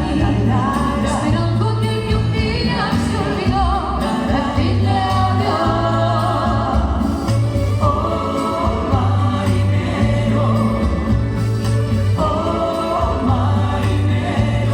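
A vocal group singing in close harmony over a band accompaniment with a steady bass line.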